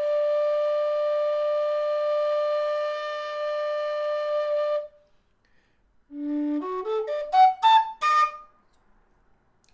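Low D whistle holding one long steady note that stops about five seconds in. After a short pause comes a quick run of notes climbing from the low bottom note up into the second octave.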